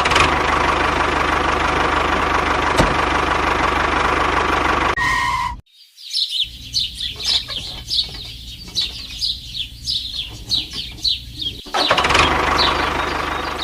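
A small motor running steadily, broken about five seconds in by a short two-tone beep. Then comes a run of quick high chirps, about three a second, for some five seconds, before the motor noise starts again near the end.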